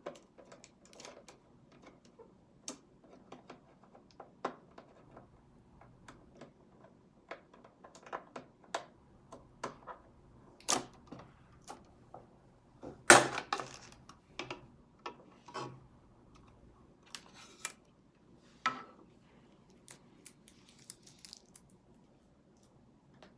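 Irregular small clicks, taps and rustles of a sewing machine and its packaging or accessories being handled, with one louder clatter about 13 seconds in.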